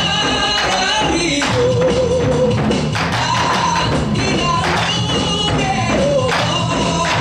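Group nanta drumming: many drum strikes played along with a recorded song, with a singer holding long wavering notes over the backing music.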